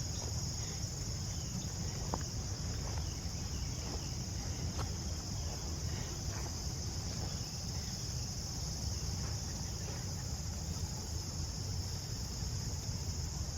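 Steady high-pitched chorus of late-summer insects, crickets, trilling without a break, over a low rumble and a few faint ticks.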